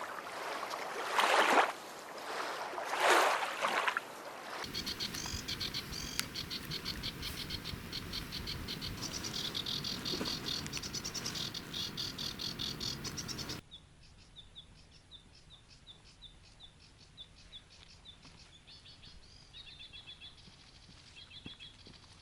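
Insects chirping rapidly and densely, quieter and sparser after an abrupt change about two-thirds of the way through. Two loud noisy bursts come in the first few seconds.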